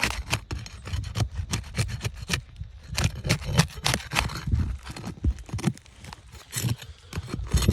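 A prying tool working under old asphalt roof shingles: a quick run of irregular scraping and crackling clicks as the shingles' seal strip is broken loose, with dull knocks underneath.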